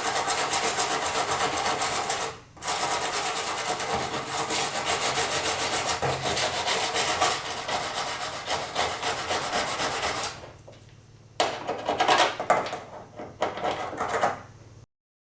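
Rapid back-and-forth scraping on the sheet metal of a car trunk, cleaning out a crevice before it is tinned and leaded. It breaks off briefly about two seconds in and stops near ten seconds. A few shorter bursts of scraping follow, then the sound cuts off abruptly.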